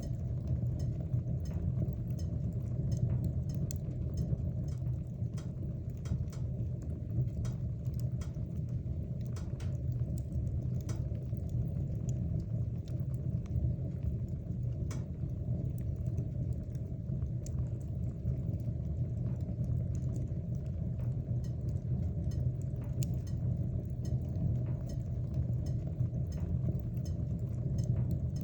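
Wood fire burning in a fireplace: a steady low rumble of flames with frequent small irregular crackles and pops.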